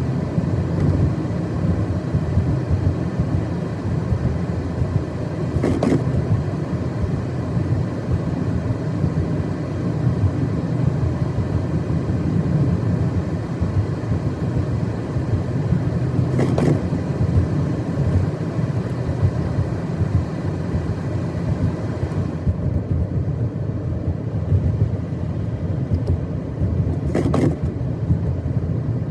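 A car driving along a snow-covered road: a steady low rumble of engine and tyres. Three brief sharp clicks come at even gaps of about eleven seconds.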